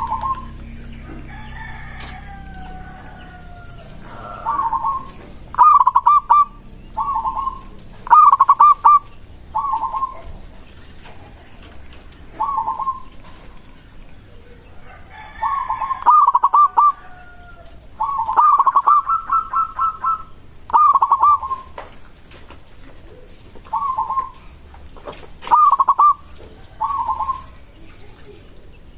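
Zebra dove (perkutut) cooing: about a dozen short, pulsed coo phrases repeated every second or two, one of them a longer rapid run of notes around the middle. Fainter drawn-out calls falling in pitch come in twice underneath.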